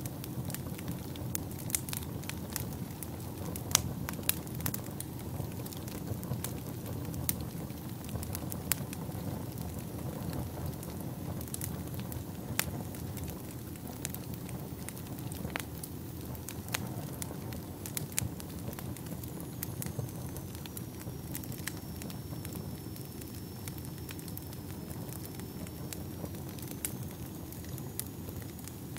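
Fire burning in a fireplace: a steady low rumble of flames with irregular sharp crackles and pops all through. About two-thirds of the way in, a faint thin high whistle joins it.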